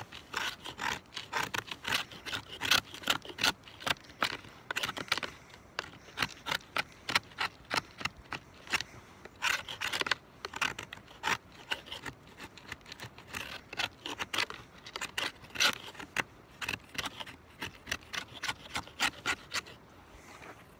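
Pocket knife blade scraping and shaving wood in quick, repeated strokes, about two to three a second with brief pauses, as a fireboard is carved for a friction fire.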